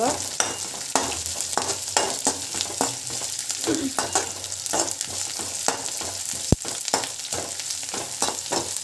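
Sliced onions and green chilli sizzling in hot oil in a kadai while a spoon stirs them, with frequent clicks and scrapes of the spoon against the pan and one sharper knock about two-thirds of the way through.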